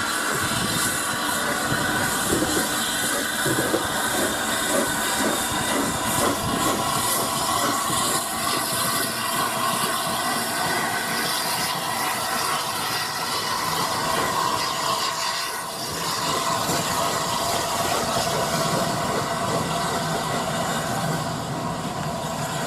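Steam locomotive running with a steady hiss of steam.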